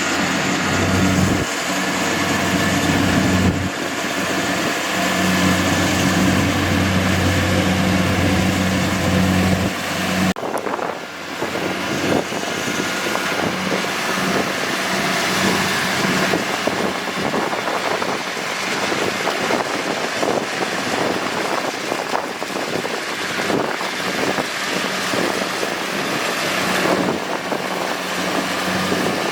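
Kubota DC-70G PRO combine harvester's diesel engine running steadily with a deep hum. About ten seconds in the sound changes abruptly to a noisier machine clatter with the engine hum fainter beneath it.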